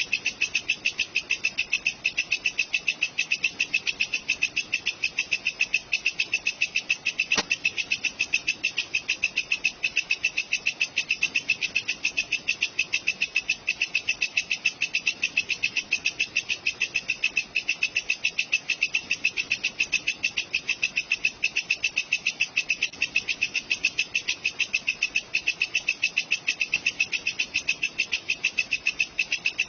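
Walang kecek katydid stridulating: a fast, even train of shrill chirps, several a second, that never lets up. It is the looped insect part of a songbird training ('masteran') track.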